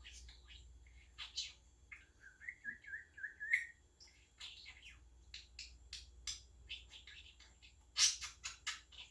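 English budgerigar chattering: a run of short, sharp chirps with a wavering warble about two seconds in, and the loudest chirps near the end.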